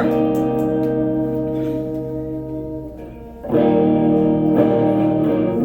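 Guitar chords strummed and left ringing. The first chord fades out over about three seconds, then a louder chord is struck about three and a half seconds in and sustains.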